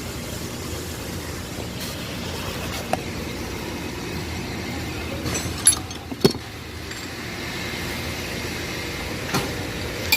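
A steady low vehicle hum, with a few sharp clicks about halfway through and another near the end.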